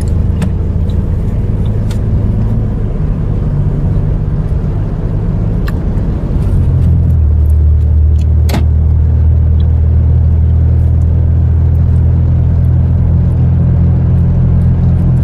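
Steady low drone of a truck's engine and road noise heard from inside the cab while driving, growing louder and steadier about six and a half seconds in, with a single short tick a couple of seconds later.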